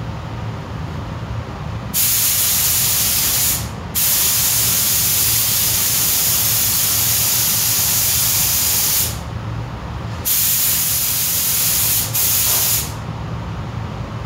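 Spray gun hissing in four bursts as the trigger is pulled: a short burst, a long one of about five seconds, then two short ones close together. It is laying acrylic primer. A steady low hum runs underneath.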